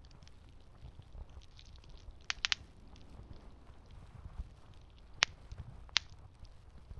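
Campfire burning with a low steady rush and sparse crackling, broken by sharp pops: three in quick succession about two and a half seconds in, then single louder snaps at about five and six seconds.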